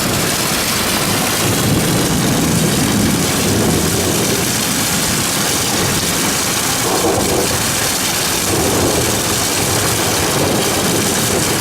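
Heavy thunderstorm rain and runoff water pouring steadily, a loud, even rush with a low rumble underneath.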